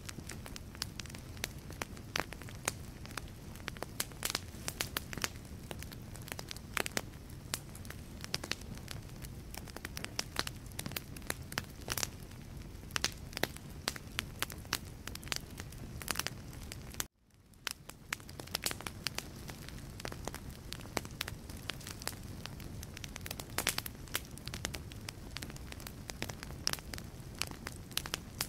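Wood fire crackling in a fireplace: dense, irregular sharp pops and snaps of burning logs over a steady low rumble of flame. About seventeen seconds in, the sound cuts out for a moment and fades back in.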